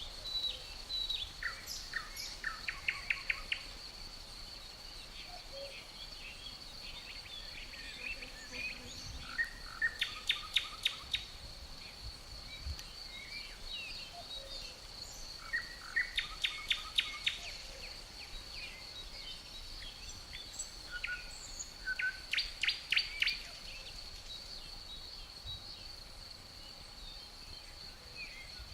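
A songbird repeats a short phrase of rapid, sharp notes four times, roughly every six seconds, with other birds chirping now and then. Beneath it runs a steady high-pitched insect drone.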